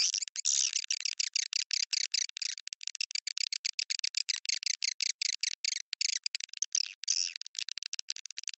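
Swiftlet call-sound track playing: dense, rapid, high-pitched swiftlet chirping and twittering in quick choppy strokes with brief gaps. It is a lure sound, played in swiftlet houses to draw swiftlets in to roost and nest.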